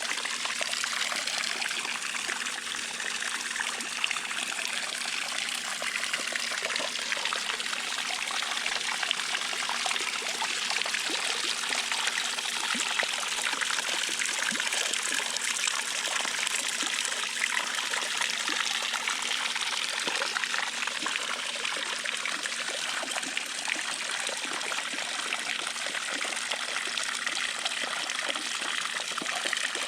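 Water pouring steadily from an Intex pool waterfall fountain into the pool, a continuous trickling splash with a faint steady hum underneath.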